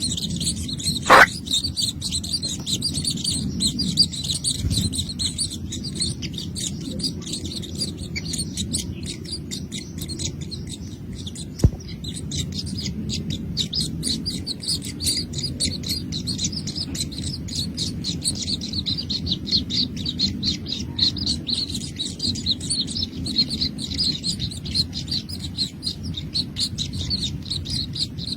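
Baby birds chirping rapidly and continuously in high, quick peeps. A short louder sound about a second in, and a single sharp click about halfway through.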